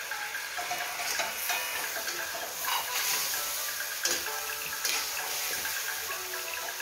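Chicken pieces frying in hot oil in a karahi, a steady sizzle, while a metal spatula stirs them, scraping and knocking against the pan about four times.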